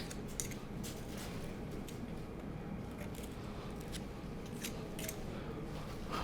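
Scattered small clicks and scrapes of dirt being picked out of a tractor's grease fittings, over a low steady hum.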